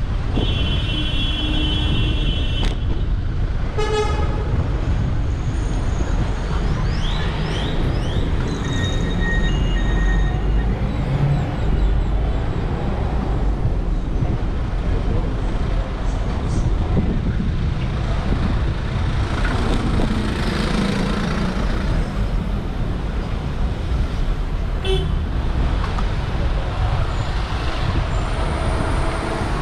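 Busy city street traffic heard from a moving bicycle: a steady rumble of wind and passing cars, with a car horn held for about two seconds near the start and a short toot about four seconds in.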